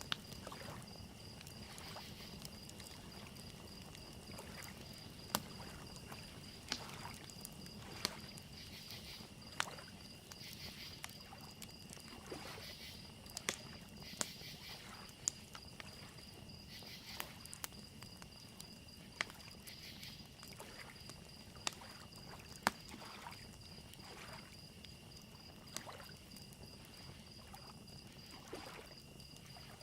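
Wood fire crackling with sharp irregular pops every second or two, over a steady high chorus of crickets chirping and soft lake waves lapping.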